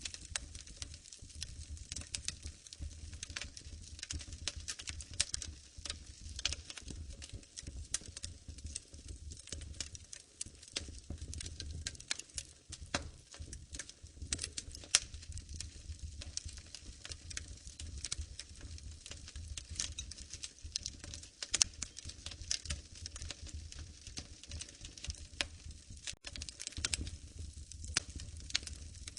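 Wood fire in a fireplace crackling, with a dense run of small irregular crackles and a few sharper pops over a low steady rumble.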